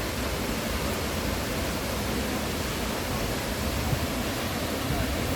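Haew Suwat waterfall: falling water rushing in a steady, unbroken roar.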